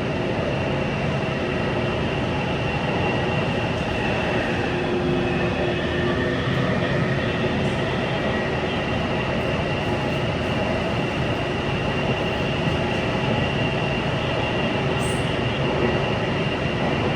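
Taipei Metro Bannan line train running, a steady rail rumble with a faint high whine held throughout.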